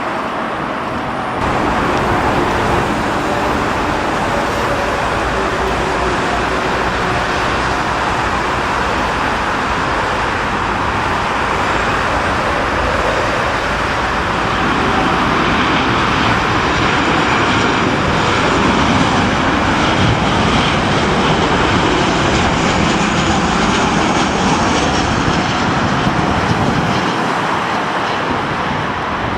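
Jet airliner's engines running loud and steady as it passes, with a high engine whine standing out in the middle.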